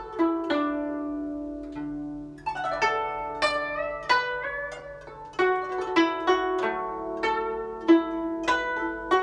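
Guzheng played solo: a phrase of plucked notes, each ringing and fading, with several notes gliding up in pitch as the string is pressed down behind the bridge.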